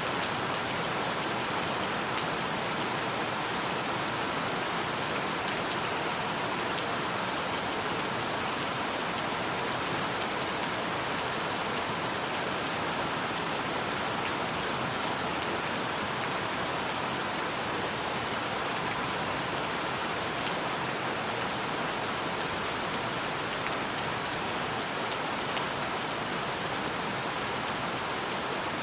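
Steady rain falling and pattering on surfaces, an even hiss of many drops with the odd sharper drop tick standing out.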